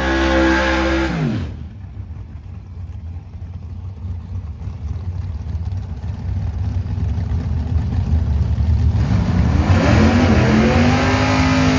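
Drag race cars' engines at full throttle. One car's engine note drops sharply and fades in the first second and a half, a low rumble carries on, and another engine comes in loud near the end, its pitch climbing and then holding.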